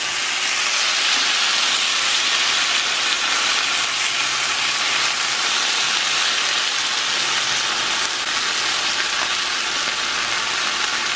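Seasoned chicken pieces sizzling in melted butter in a hot nonstick frying pan: a steady, even hiss.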